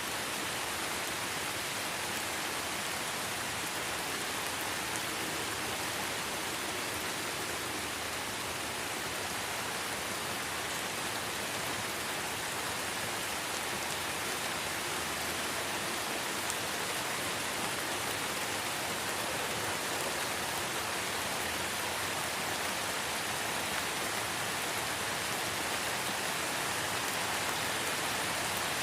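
Steady light rain falling in a forest, an even hiss with faint scattered drop ticks.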